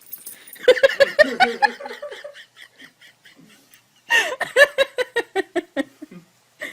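Laughter in two bouts of quick, rhythmic ha-ha pulses, the second bout starting about four seconds in.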